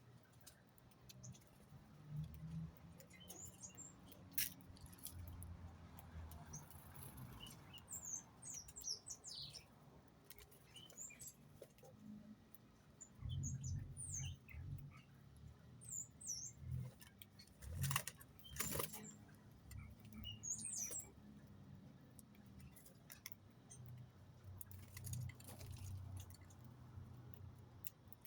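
Small birds giving faint, short, high chirps scattered throughout, mixed with occasional sharp taps and low soft thumps.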